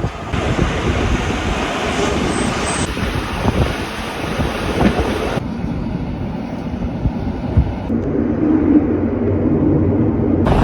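Rhaetian Railway train running along the track: a steady rumble with wind on the microphone. The sound changes abruptly three or four times, as separate recordings are cut together.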